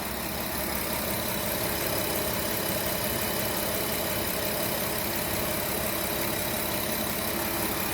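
Jeep Wrangler JK engine idling steadily.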